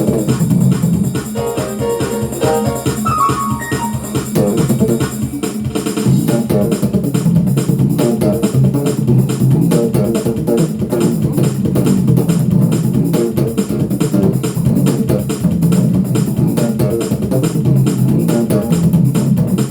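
Bass guitar playing along with drums and keyboard, a steady beat with the bass notes the strongest part.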